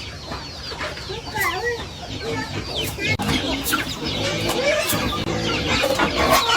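Chickens clucking, many short calls overlapping from several birds at once.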